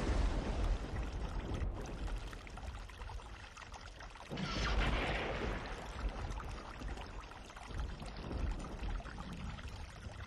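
Sauce-coated fried cauliflower sliding wetly off a pan and dropping into a serving bowl, over a low steady rumble. There is a louder surge of the pouring about four seconds in.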